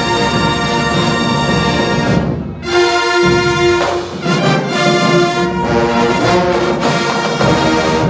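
Marching band brass section playing loud held chords, breaking off briefly between phrases about two and a half and four seconds in.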